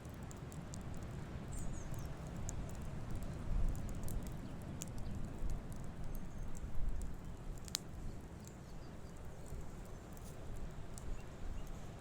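Campfire burning: irregular crackles and sharp pops, one louder snap about two-thirds of the way in, over a steady low rumble.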